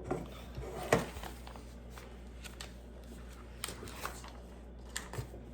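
Plastic Lego pieces being handled and pressed together: a few short, sharp clicks, the loudest about a second in.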